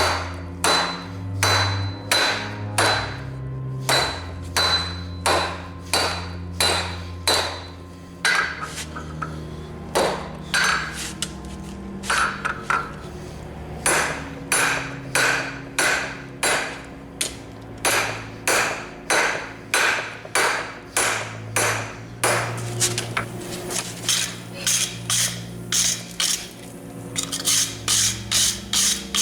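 Blacksmith's hammer striking hot steel on an anvil, a steady run of about two ringing blows a second that thins out for a few seconds in the middle. A low drone that shifts in pitch runs underneath.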